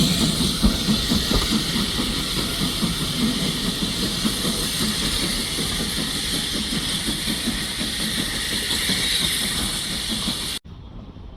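Steam locomotive hissing steadily over a low rumble, cut off suddenly near the end.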